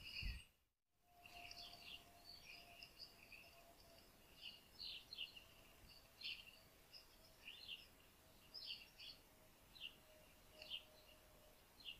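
Small garden birds chirping faintly, short high calls repeated every half second to a second. A low thump at the very start, then a brief dropout, with a faint steady hum under the calls.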